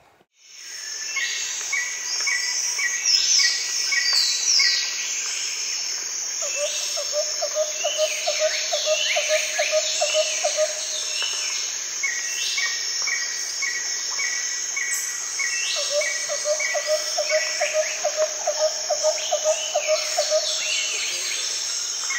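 Woodland insect and bird chorus: a steady high insect drone under repeated bird chirps and quick downward-sweeping calls, with a lower rapid pulsing trill that comes in twice for several seconds. It fades in at the start.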